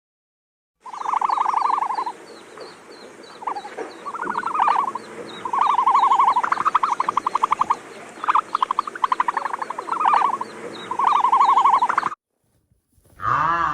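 Frogs calling: repeated pulsed trills, each about a second long, with shorter trills between them and faint fast chirps higher up. The sound starts about a second in and stops abruptly near the end.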